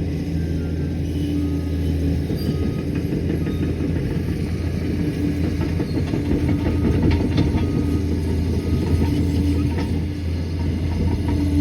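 Liebherr PR 746 crawler dozer running under load: a steady deep engine drone with a higher whine that fades in and out, and the steel tracks clattering and clicking as it moves.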